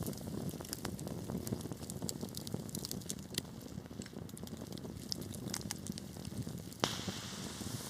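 Wood fire burning, with a steady low rumble of flames and scattered sharp crackles, and one louder pop near the end.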